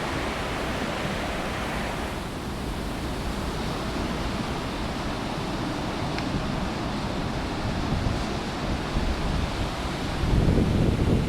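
Heavy winter storm surf breaking and washing ashore in a steady roar, with wind buffeting the microphone; a bigger surge comes in near the end.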